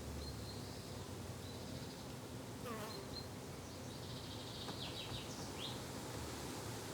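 Insects buzzing in a steady low drone, with small birds chirping a few short high notes over it, several together about two-thirds of the way through.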